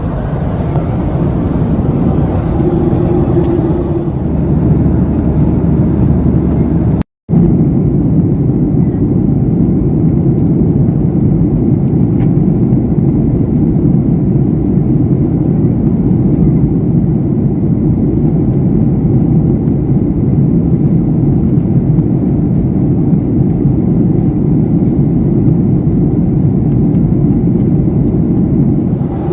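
Steady cabin noise of a Boeing 737-800 in flight: the deep, even rush of airflow and CFM56-7B engines. It cuts out for an instant about seven seconds in, then resumes unchanged.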